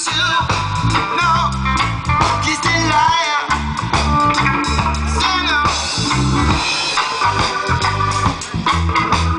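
Live reggae band playing, with a strong bass line under guitar and organ.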